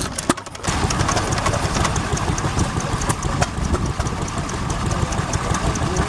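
A stationary engine running steadily at idle, with a regular ticking over its low running sound. The sound comes in about half a second in.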